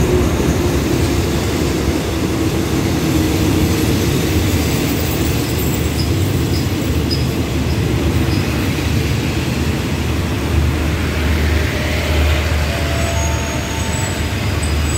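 Passenger coaches of an express train rolling past along the platform as it arrives at the station, the wheels giving a steady rumble on the rails.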